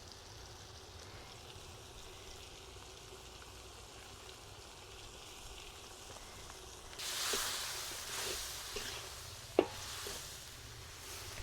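Food frying in a hot pot: a faint steady sizzle, then about seven seconds in a sudden loud sizzle that slowly dies down. A utensil knocks against the pot several times during stirring, with one sharp knock near the end.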